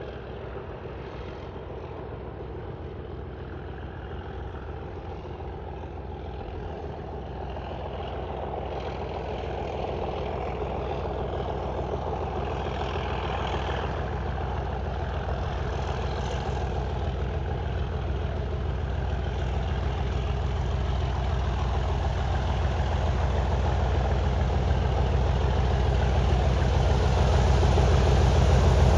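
Diesel locomotive's engine running at a steady note and growing steadily louder as the locomotive approaches.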